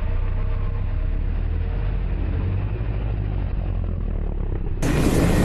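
BMW SUV's engine running steadily under a heavy low rumble as it drifts on snow. Near the end the sound cuts abruptly to a louder, hissier rush of noise.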